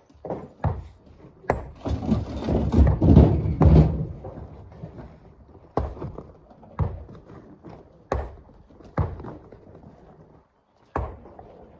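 Rocks knocking and clattering as they are handled and loaded by hand. A dense clatter of many strikes from about a second and a half to four seconds in, then single sharp knocks about every second.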